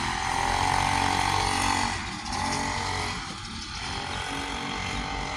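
Mini bike's small engine running, loudest for about the first two seconds and then dropping lower.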